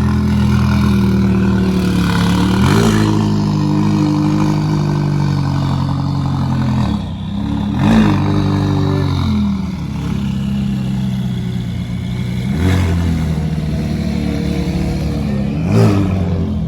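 A car engine idling steadily, blipped into quick revs about three times.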